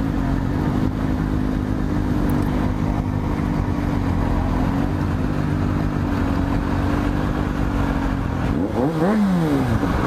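Motorcycle engine running steadily at low riding speed, with a brief rev that rises and falls in pitch near the end.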